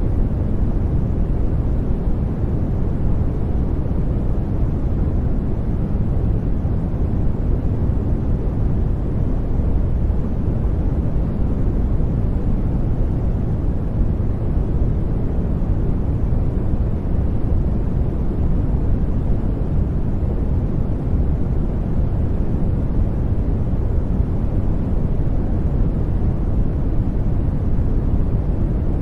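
Steady brown noise: an even, deep rumbling hiss, strongest in the low end and thinning out toward the highs, with no changes or events.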